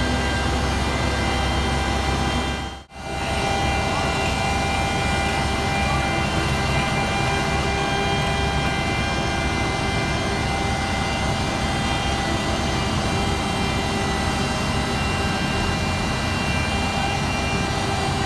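Heavy diesel paving machinery running steadily: a constant engine drone with a steady whine above it. The sound drops out for a moment about three seconds in, then carries on.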